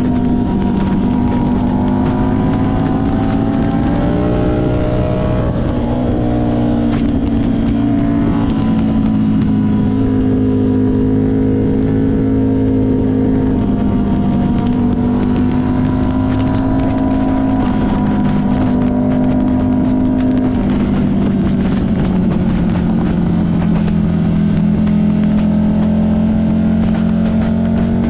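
Buell 1125CR's liquid-cooled V-twin engine running at steady cruising revs, heard from on board the moving bike over wind and road noise. The revs dip and pick up again about five seconds in and ease down slightly about two-thirds of the way through.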